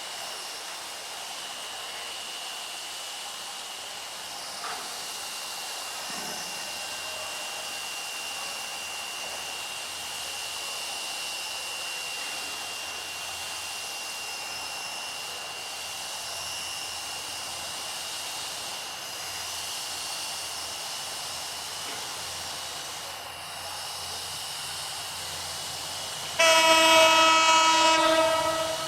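A steady background hum with a thin, steady high tone, then a diesel locomotive's horn, an EMD GT38ACL, blowing one loud blast of about two seconds near the end.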